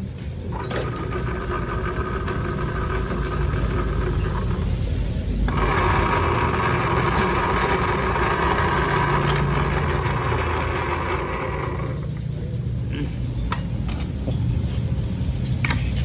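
Motorcycle engine running with a steady whine from its CVT transmission, the CVT noise problem being shown. The whine comes in twice: faintly in the first few seconds, then louder for about six seconds in the middle.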